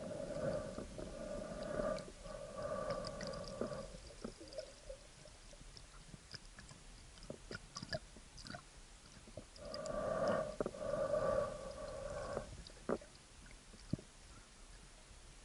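A spearfisher breathing hard through a snorkel, in a run of drawn breaths each a second or two long, with the tube's hollow whistling tone. It comes in two spells, at the start and again about ten seconds in, with scattered sharp clicks and taps between them.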